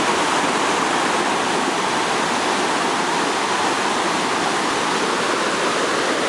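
Steady rushing of water pouring over a waterfall and dam on a swollen river running very full.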